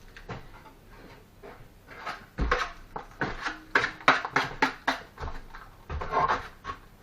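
Knocks and scrapes of brick and mortar work: a quick, irregular run of short knocks and scrapes with a few low thuds, starting about two seconds in.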